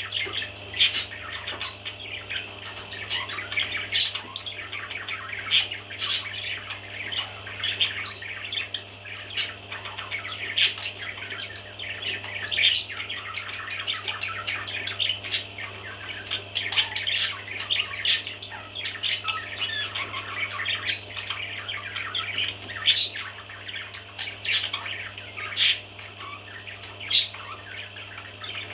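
Baby parrots chirping and squawking together in a continuous chatter, with sharper, louder squawks breaking out irregularly every second or two.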